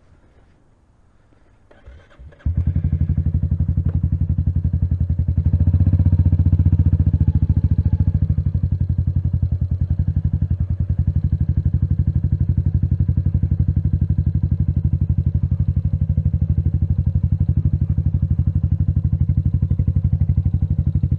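Royal Enfield Meteor 350's single-cylinder engine starting about two seconds in, then idling steadily with an even, regular pulse.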